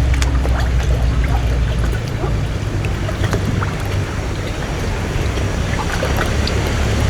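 Boat engine running with a steady low drone over water rushing and splashing. The low engine note eases off about two seconds in.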